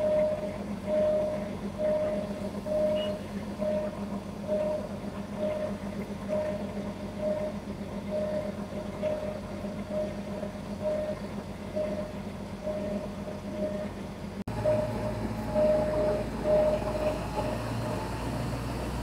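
Diesel passenger train running slowly, a steady low hum, with a short beep repeating about twice a second over it. After an abrupt cut about two-thirds of the way through, a heavier low rumble of the train rolling.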